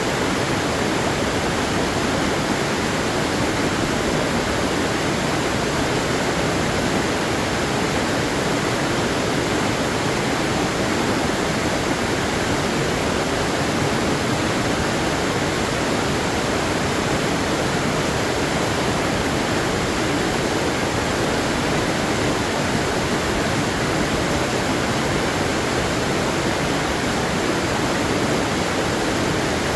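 Waterfall: water pouring and splashing in a steady, unchanging rush.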